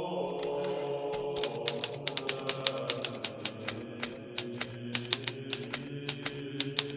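Hermes Baby portable manual typewriter being typed on at a steady pace, the keys striking several times a second in an uneven rhythm. Soft music with long held notes plays underneath.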